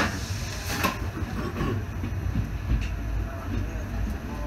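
1980s passenger train running along the track, heard from on board: a steady low rumble with two sharp knocks in the first second.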